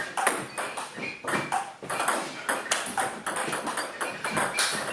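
Table tennis balls clicking off bats and the table: a quick, irregular run of sharp clicks, several with a short high ring.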